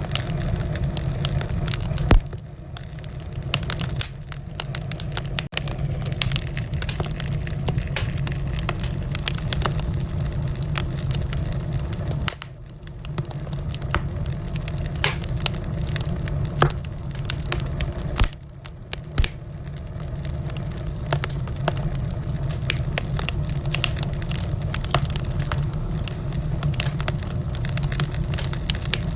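Wood fire in a fireplace crackling: a steady low rumble of flames with frequent small snaps and pops. A sharp, louder pop comes about two seconds in, and two more come close together about two-thirds of the way through.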